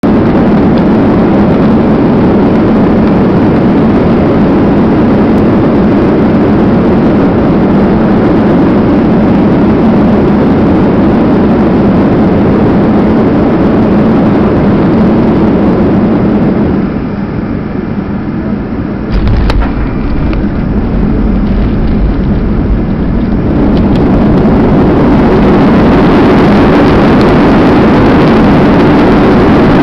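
Cabin noise of a Boeing 737-200 landing: the steady roar of its Pratt & Whitney JT8D turbofans and rushing air drops as power comes off. About two-thirds of the way through comes a sudden thump as the wheels touch down, followed by a deep runway rumble. The roar then builds again as reverse thrust is applied.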